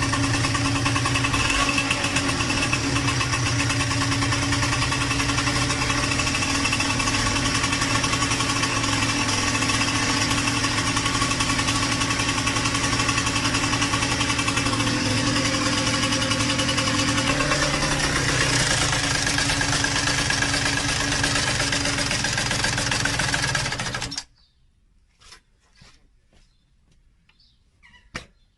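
Yamaha DTR125 two-stroke single-cylinder engine running steadily with a knocking rattle, which the owners take for piston slap. Shortly before the end it cuts off suddenly, leaving only a few faint clicks.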